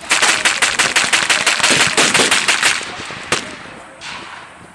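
A machine gun firing blanks in one long burst of about nine shots a second, followed about a second later by a single gunshot.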